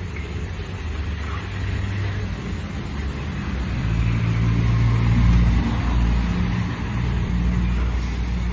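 A motor vehicle's engine running with road noise, growing louder from about four seconds in.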